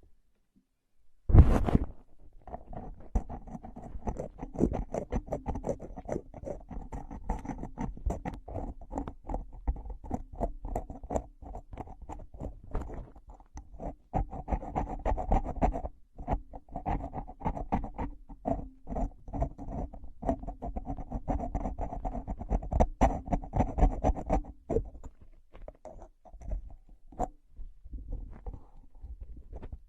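Close-miked ASMR trigger sounds: a dense, fast run of taps and scratches that thins out near the end, after a short pause and one loud burst at the start.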